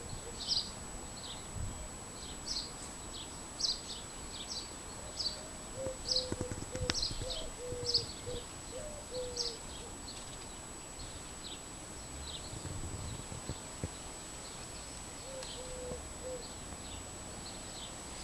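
Birds chirping outdoors: repeated short, high, falling chirps, joined by a quick run of lower, evenly spaced notes about a third of the way in and again briefly later on.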